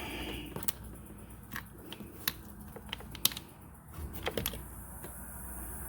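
Scattered light clicks and taps of plastic and metal parts being handled while a motorcycle fuel tank is freed, about one click a second with a small cluster near the end, over a low steady background hum.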